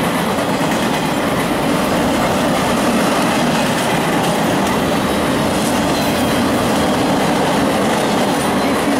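Empty 90-foot flatcars of a freight train rolling past at speed: a steady rumble of steel wheels running over the rail joints.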